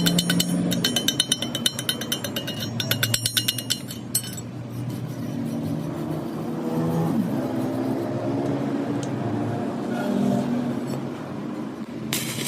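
A fast clattering of sharp clicks for about four seconds, then a motor running with a low hum that shifts in pitch and briefly drops about seven seconds in.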